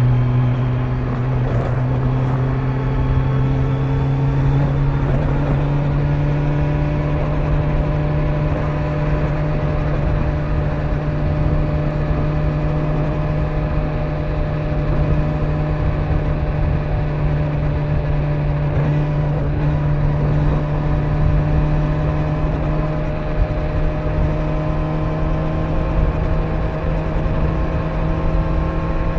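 Kawasaki Z900's inline-four engine running on the stock exhaust while cruising on the open road, its pitch climbing slowly and steadily as the bike gently gains speed, under a bed of wind and tyre noise.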